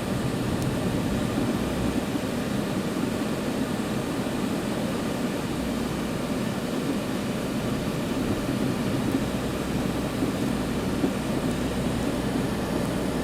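A steady low rumble of vehicle noise, even throughout with no distinct events.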